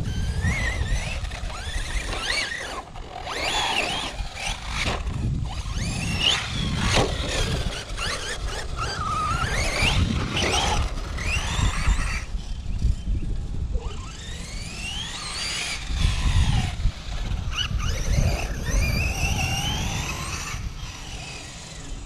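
Electric RC monster truck (a Tekno ET48.3 truggy conversion) running hard: its brushless motor whines up and down in pitch again and again as it accelerates and slows, over a low rumble.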